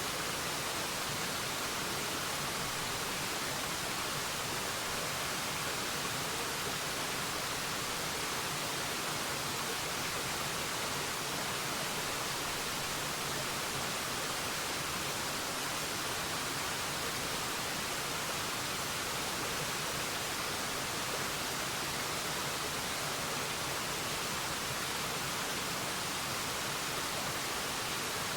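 Waterfall: a steady, unbroken rush of falling water, even and hissy, with most of its weight in the higher range.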